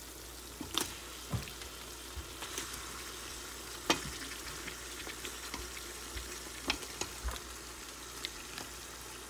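Chopped onion and garlic sizzling in hot oil in a pressure-cooker pot as raw chicken pieces are added: a steady frying hiss with scattered clicks and soft knocks.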